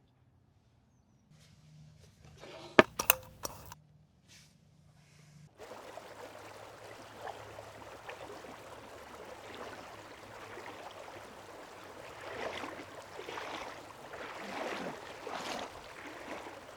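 A few sharp knocks about three seconds in, then flowing river water that starts suddenly a third of the way through and runs on with uneven swells.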